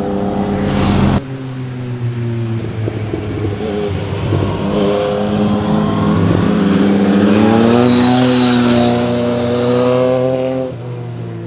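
Motorcycle engines running hard through corners: the exhaust note rises in pitch as a bike accelerates, then holds steady. The sound changes abruptly about a second in and again near the end, where one pass is cut to the next.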